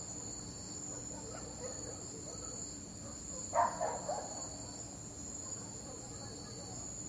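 A dog barks twice about halfway through: a sharp bark and then a softer one just after, over a steady high-pitched background chirring.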